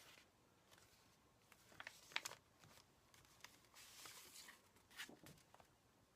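Near silence, with a few faint rustles and soft clicks of paper journal pages being handled and turned.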